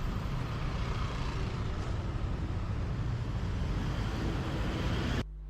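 Street traffic noise: a steady rumble and hiss of passing vehicles, which cuts off suddenly near the end to a much quieter low hum.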